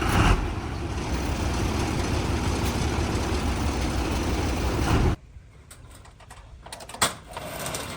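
Truck engine running steadily, cutting off suddenly about five seconds in; after that, quieter clicks and one sharp knock near the end.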